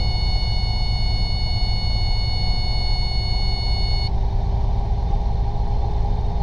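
Robinson R22 helicopter cabin noise during a practice autorotation: a steady low rumble from the rotor and airframe. A high steady tone runs alongside it and cuts off suddenly about four seconds in.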